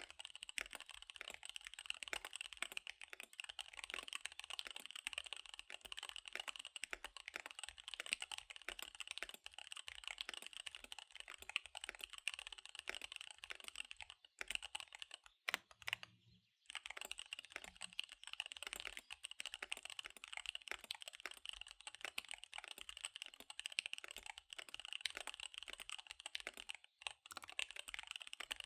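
Fast typing on a KBD75 V3 mechanical keyboard with SP-Star Dark Magic Girl tactile switches and DSA keycaps, a rapid, continuous clatter of keystrokes. About halfway there is a brief pause with one sharp single click.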